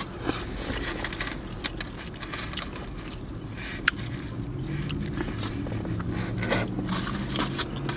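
Close-up eating sounds: chewing and a utensil scraping food, with scattered small clicks, over a low steady hum.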